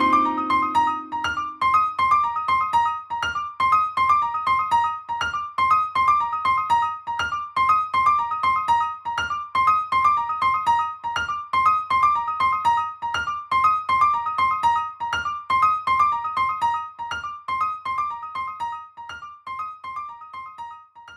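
Piano music: a quick, even figure of high notes repeating over and over, with a low chord dying away in the first seconds and the playing fading out near the end.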